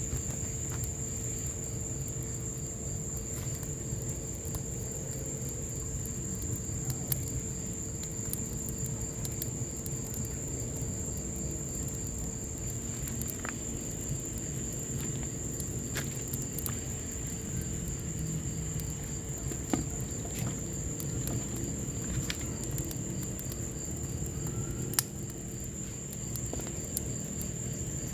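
Wood fire burning in a patio fireplace, with occasional sharp crackles and pops over a low steady rumble, while rain falls. A steady high-pitched whine runs under it.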